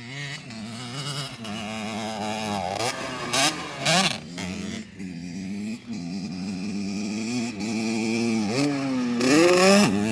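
Dirt bike engine revving and accelerating through the gears, its pitch climbing and dropping with each shift. It grows loudest with a rising pitch near the end. Two brief sharp bursts of noise come about three and a half and four seconds in.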